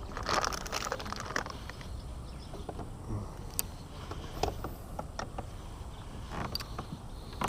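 Fishing gear handled aboard a kayak: a brief rustle in the first second, then scattered light clicks and taps.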